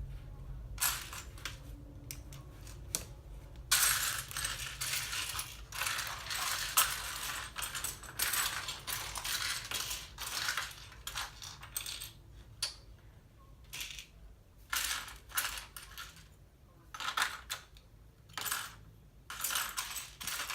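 Loose plastic LEGO pieces clattering and rattling as hands rummage through a pile of parts, searching for a missing piece. A long stretch of dense clatter, then shorter, separate bursts.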